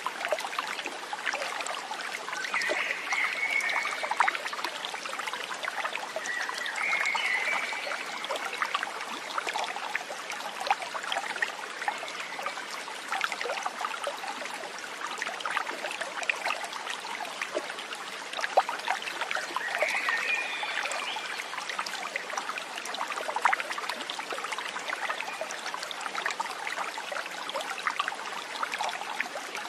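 A small stream trickling and splashing steadily over stones, with three short high chirps over it.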